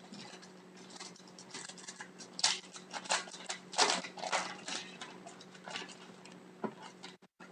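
Trading cards and their packaging being handled: irregular rustling and crinkling, loudest about two and a half and four seconds in, over a faint steady electrical hum.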